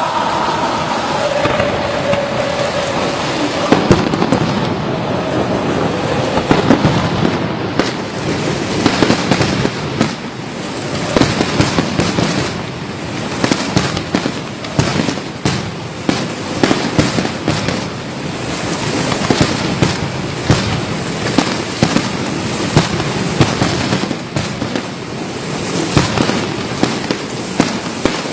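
Fireworks and firecrackers going off in a celebration, dozens of sharp cracks and pops in fast, irregular strings over a steady hiss.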